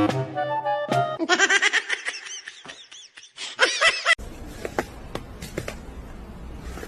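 Background music with a drum beat ends about a second in. Then comes nearly three seconds of rapid, high-pitched laughing, the pitch bouncing up and down many times. After an abrupt cut there is low background noise with a few light clicks.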